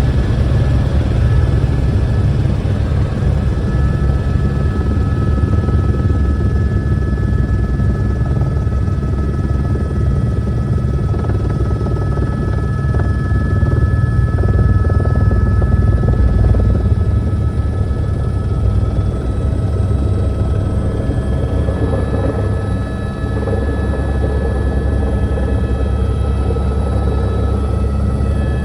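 Helicopter in flight heard from inside the cabin: a loud, steady drone of rotor and engine with a fast pulsing throb and a thin steady high whine over it.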